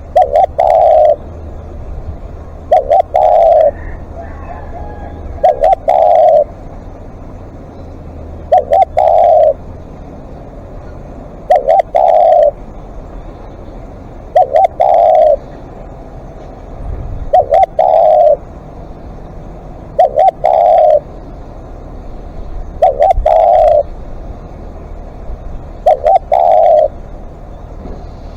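Spotted dove cooing its song over and over: each phrase is two short notes followed by a longer coo, repeated about every three seconds, ten times here.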